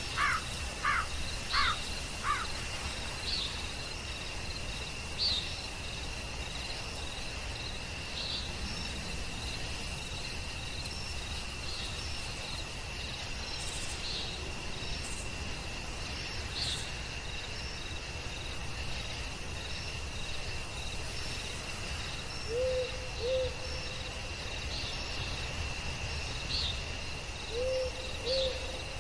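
Night forest ambience: a steady high insect drone with short chirps repeating about once a second. A quick run of falling whistled calls sounds in the first two seconds, and low hoots come in two pairs, one about three-quarters of the way in and one near the end.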